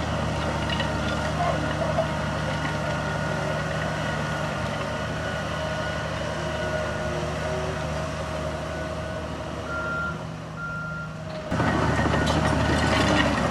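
Heavy diesel construction machinery running, with a reversing alarm sounding. The sound turns abruptly louder and busier near the end.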